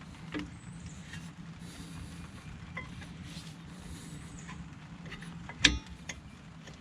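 Faint metal clicks and scrapes of brake pads and caliper hardware being handled and slid into place, with one sharp louder metallic clack about two-thirds of the way through, over a steady low hum.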